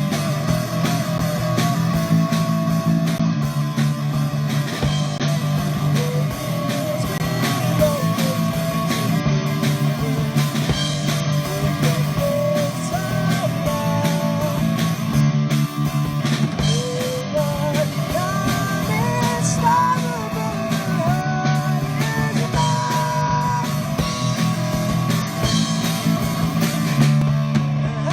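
Rock band playing an instrumental passage: a guitar carries the lead melody with bending notes over a steady bass line and drums.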